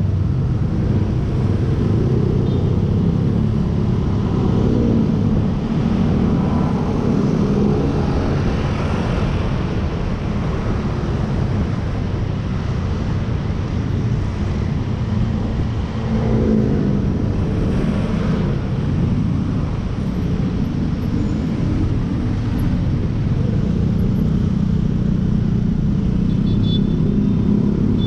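Motorcycle engine running while riding in city traffic, its note rising a couple of times with the throttle, over a steady rumble of road noise.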